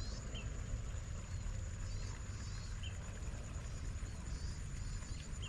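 Steady low ambient rumble with a thin, steady high whine, and faint high bird chirps a few times.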